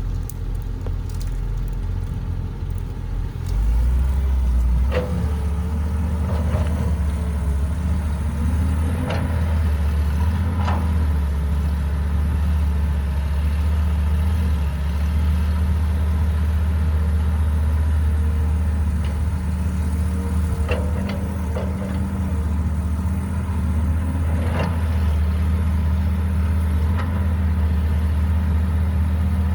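Caterpillar 312B excavator's diesel engine running steadily, getting louder about three and a half seconds in. A few short sharp clanks sound over the engine.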